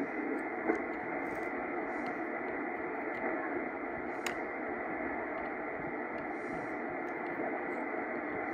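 Yaesu FT102 shortwave receiver hissing through its speaker: steady band noise in a narrow voice-width passband, with no station speaking for the moment.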